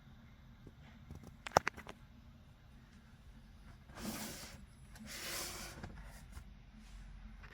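Packaging being handled during an unboxing: one sharp click, then two short rustling swishes about a second apart, like foam or plastic wrapping sliding out of a box.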